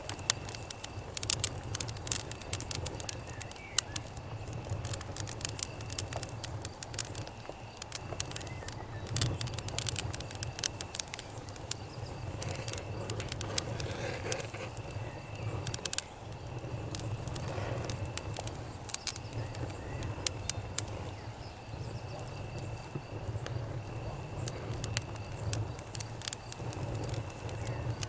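Campfire crackling with frequent sharp, irregular pops, over a steady high chorus of night insects (cicadas and crickets). A cricket's high trill comes and goes, and a low rumble runs underneath.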